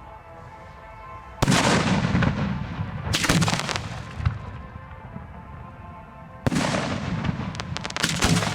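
Fireworks going off at close range: two loud clusters of sharp bangs, the first about a second and a half in and the second about six and a half seconds in, each lasting a couple of seconds.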